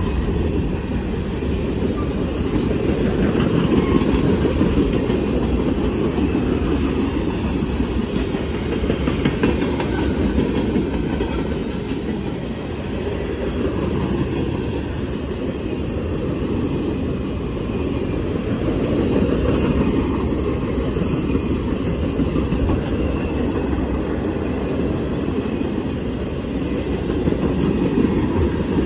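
Freight cars of a mixed freight train (tank cars, boxcars and covered hoppers) rolling past a grade crossing, a steady low rumble of steel wheels on rail.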